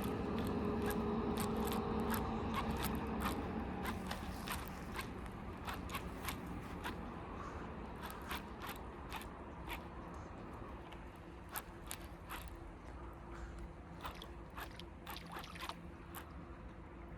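Fishing reel being wound in on a retrieve, with many irregular clicks and ticks. A low hum in the first few seconds fades out.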